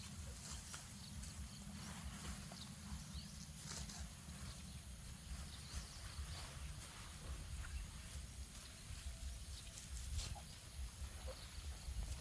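Grass being cut by hand with a sickle: scattered crisp snips and rustles of stalks, over a steady low rumble.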